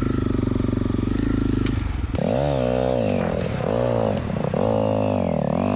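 Honda CRF250L dirt bike's single-cylinder four-stroke engine running steadily at low revs, then from about two seconds in revved up and down in several quick swells of the throttle.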